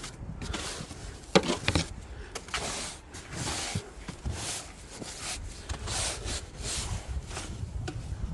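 Snow being swept and scraped off a car in repeated strokes, with a sharper, louder knock about a second and a half in.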